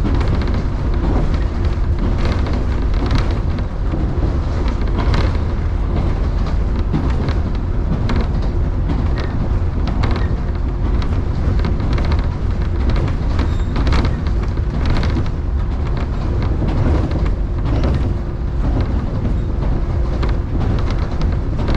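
Electric commuter train running between stations: a steady low rumble of wheels on rail, with a faint constant hum and frequent irregular clicks and knocks.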